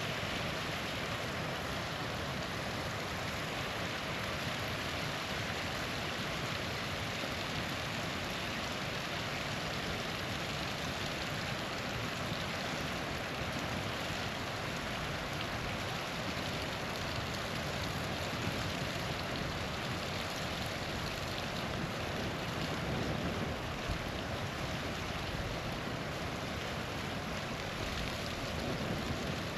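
Small waterfall rushing steadily, a continuous even wash of falling water, with a single faint campfire pop late on.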